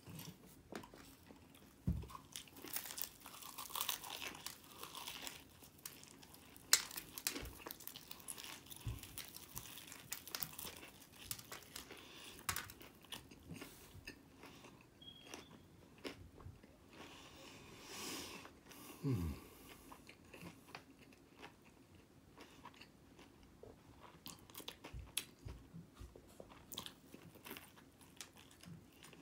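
Close-up chewing and biting of crispy fried chicken wings: irregular crunches of the breading and wet mouth clicks as the meat is eaten off the bones.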